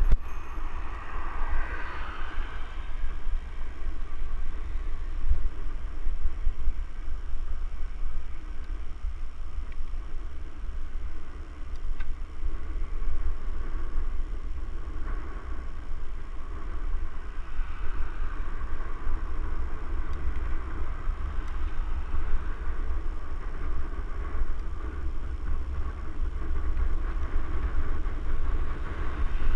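Steady low rumble with a noisy hiss over it, swelling a couple of times, like motion and wind noise on a moving microphone.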